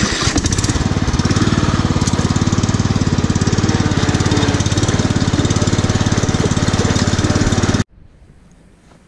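Lawn tractor engine running steadily with a fast, even pulse. It cuts off suddenly near the end, leaving only faint background.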